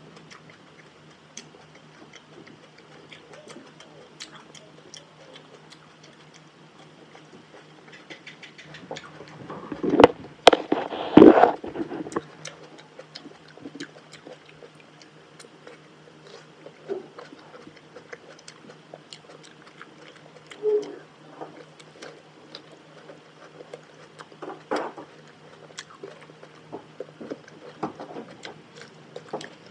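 Close-up eating sounds of a person biting and chewing raw tomato: wet smacks, small clicks and slurps, with a louder stretch of biting and slurping about ten seconds in.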